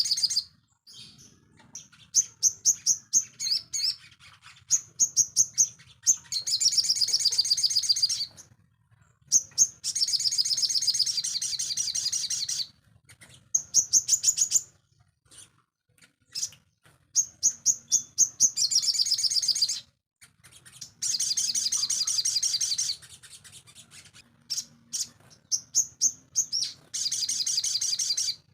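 Sogon songbird singing: rapid high chirps and fast, buzzing trills in repeated bursts of one to three seconds, with short pauses between them.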